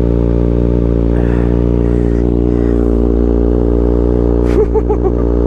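Kawasaki ZX6R 636 inline-four running on an Austin Racing GP1RR aftermarket exhaust, holding a steady cold-start fast idle around 2000 RPM. A few short clicks come about four and a half seconds in.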